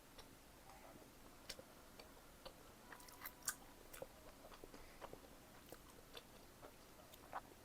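Close-miked chewing of bacon potato pizza: a scatter of small mouth clicks and smacks at an irregular pace, the loudest about three and a half seconds in.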